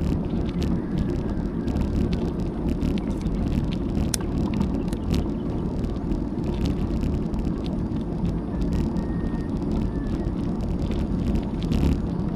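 Steady wind buffeting and rumble on an action camera's microphone while riding a bicycle, with scattered small clicks and rattles from the ride.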